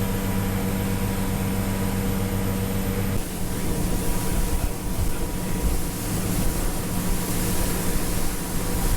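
Motorboat engine running steadily under way, a constant hum with wind and water noise. About three seconds in, the hum weakens and a rougher, more uneven rush takes over.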